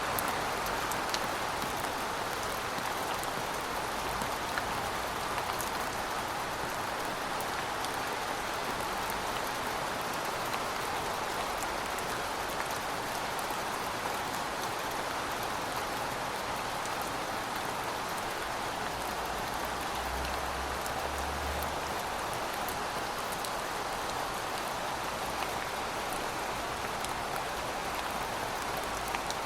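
Steady rain falling on pavement: a dense, even hiss scattered with many small drop ticks.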